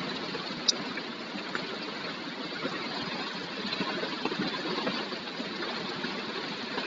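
Storm rain falling steadily, an even hiss, with one short sharp click less than a second in.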